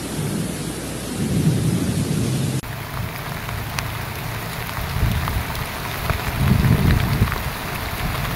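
Heavy rain pouring down on a flooded street, with low rumbling swells twice. The sound changes abruptly about two and a half seconds in.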